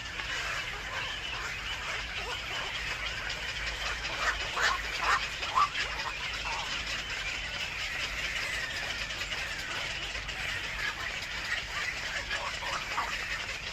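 Birds calling: a steady chatter of chirps, with a few louder, sharper calls about four to six seconds in and again near the end.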